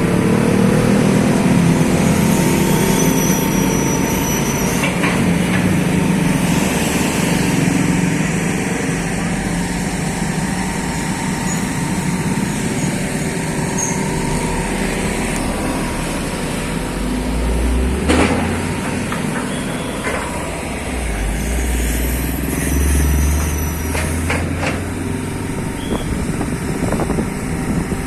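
A hydraulic excavator's diesel engine running under working load, its pitch shifting as it is worked, with deeper surges of rumble later and a few sharp knocks.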